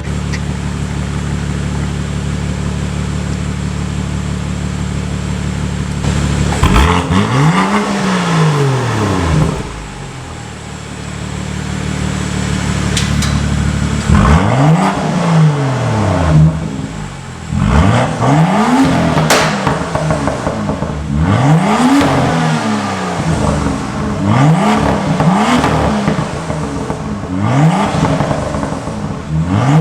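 BMW M2 F87's turbocharged straight-six through the BMW M Performance exhaust, idling steadily, then revved once about six seconds in. From about fourteen seconds in it is blipped repeatedly, roughly one rev every two seconds, each rising and falling in pitch.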